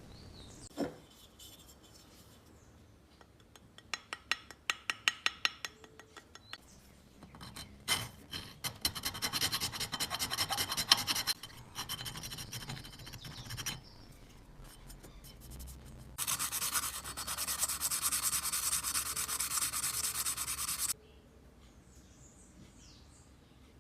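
Steel wool rubbing and scraping on a hard part. A few quick separate strokes come first, then a stretch of dense scrubbing, then a steady fast rubbing that stops suddenly near the end.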